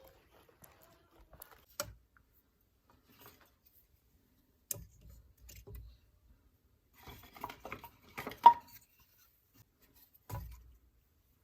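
Scattered knocks, clacks and light rubbing of hard objects being handled, with a cluster of clacks in the second half and the loudest single sharp clack about eight and a half seconds in.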